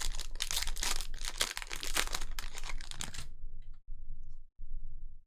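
Trading-card pack wrapper being torn open and crinkled, a dense crackling rustle for about three seconds that then stops.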